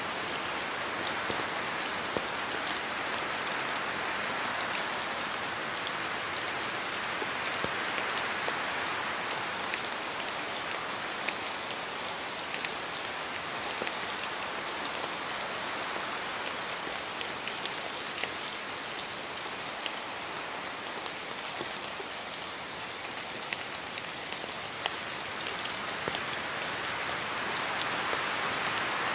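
Steady rain falling, an even hiss with many scattered sharp drop ticks, swelling and easing slowly a few times.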